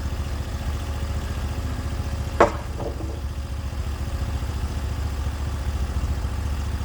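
Sawmill engine running steadily at idle, with one sharp clack about two and a half seconds in and a fainter one just after.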